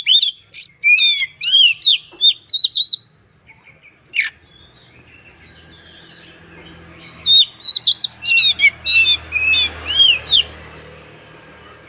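Oriental magpie-robin (kacer) singing in quick runs of sharp, sweeping whistled notes. It breaks off about three seconds in and starts again about halfway through, over a faint low hum.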